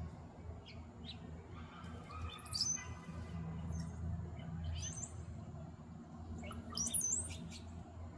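Small songbirds chirping: a few short high calls about two and a half seconds in and a quick cluster near the end, over a low steady hum.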